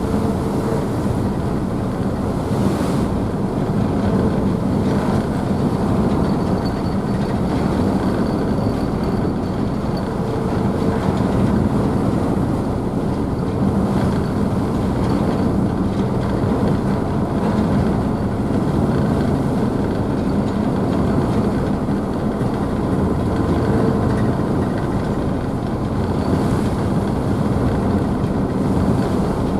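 Car ferry's engines running with a steady low hum, mixed with the constant rush of the wake and spray churning behind the stern.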